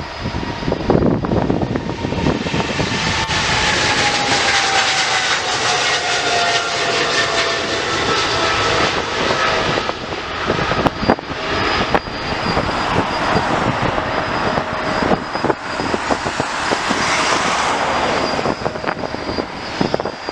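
An airliner's engines passing by, loud, with a whining tone that slides steadily down in pitch over several seconds as the aircraft goes past.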